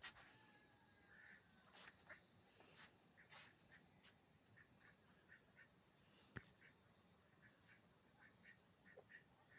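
Faint, short bird calls repeated a few times a second, with a few sharp clicks in between.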